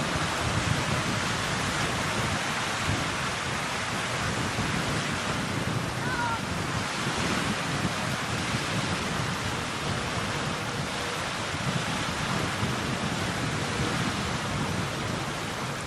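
Steady rushing wind noise, with gusts buffeting the microphone in the first second or so.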